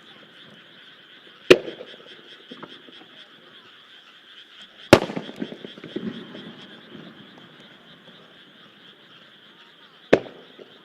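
Three aerial firework shells bursting with sharp bangs, about a second and a half in, about five seconds in (followed by a rumbling, crackling tail) and near the end. Between them, a steady chorus of frogs croaking in the fields.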